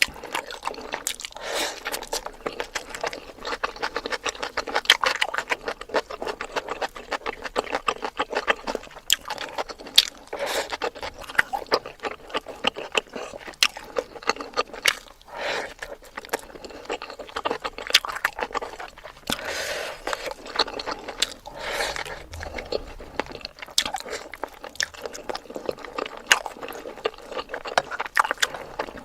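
Close-miked eating sounds: a person chewing and crunching food in dense, irregular quick clicks, with no pauses.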